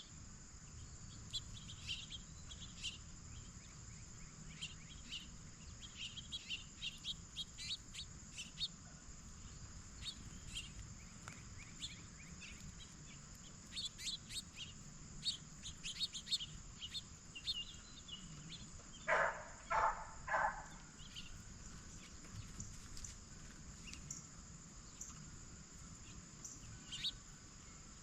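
Small birds chirping over a steady high insect trill. About two-thirds of the way in come three loud, harsh calls in quick succession, typical of a blue jay.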